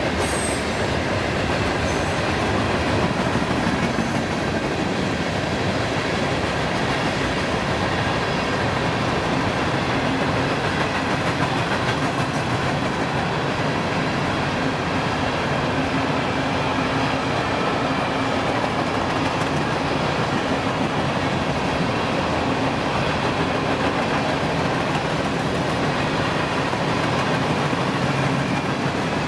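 A train's cars rolling steadily past on the track. There is a faint high wheel squeal in the first couple of seconds.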